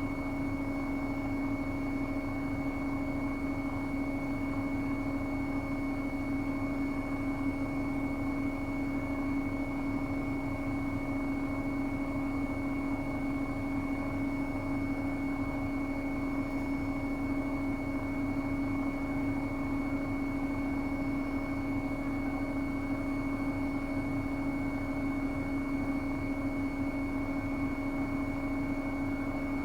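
Bosch Serie 8 WAW32590 front-loading washing machine spinning at a steady high speed, with a constant motor whine over the hum of the drum.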